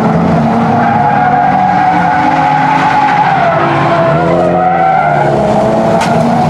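Drift car's engine running at high revs, its pitch rising and falling as the throttle is worked, with tyres skidding through a slide.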